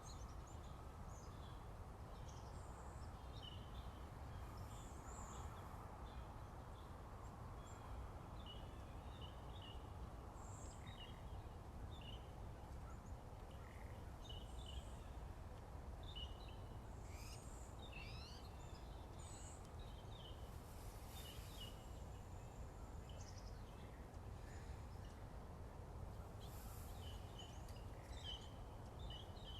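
Morning birdsong: several small birds give short chirps and quick slurred notes, scattered through the whole stretch over a steady low background noise.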